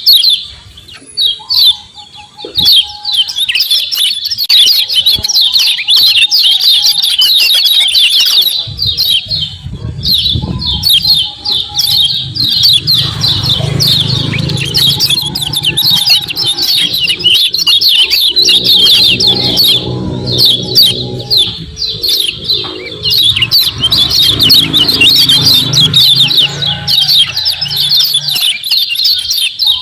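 Kecial kuning white-eyes giving a fast, dense, unbroken stream of high 'ciak ciak' chirps, the birds in full vigorous song. A low rumble runs underneath through the middle.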